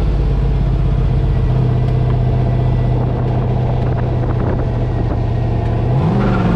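Drift truck's engine running at steady revs during a drift pass, then revving up near the end.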